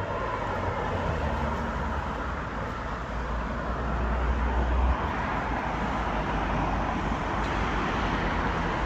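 Steady road traffic on a busy main road: cars passing with continuous tyre and engine noise, and a low rumble that swells about halfway through.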